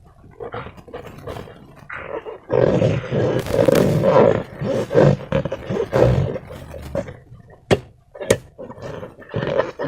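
Slime being squeezed and squished by hand in irregular bursts, with two sharp clicks about three-quarters of the way through.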